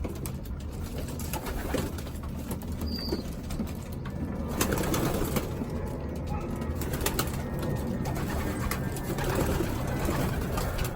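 Racing pigeons cooing continuously, with a few sharp clicks over the middle of the stretch.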